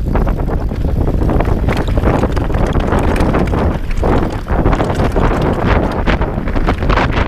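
Enduro motorcycle ridden on a dirt trail, heard from an onboard camera: heavy wind buffeting on the microphone over the bike's running, with frequent sharp knocks from the rough ground.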